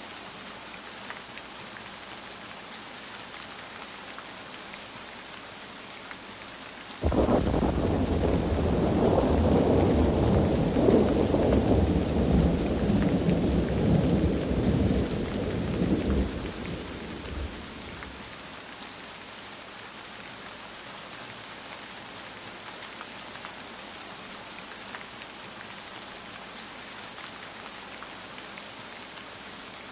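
Steady rain falling, with a loud roll of thunder that breaks in suddenly about seven seconds in, rumbles for about ten seconds and dies away.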